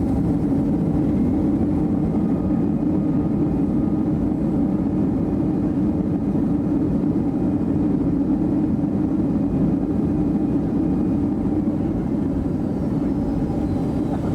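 Steady cabin noise inside a Boeing 757 airliner: an even rumble of engines and airflow with a constant low drone.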